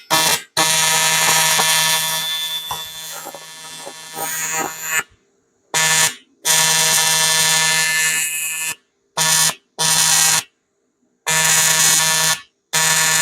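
AC TIG welding arc on aluminium buzzing steadily, switched on and off in bursts: one long run of about four seconds, then a string of shorter stitch welds, each ending abruptly.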